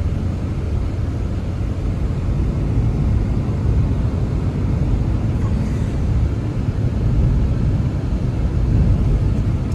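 Blizzard wind blowing steadily, a low rumble that swells a little now and then.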